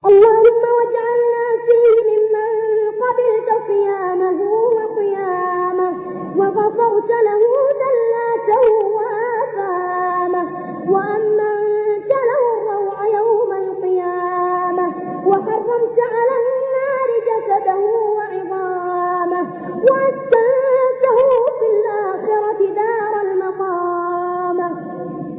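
Unaccompanied melodic vocal chanting: one voice holding a long, wavering, ornamented line, with only brief dips between phrases.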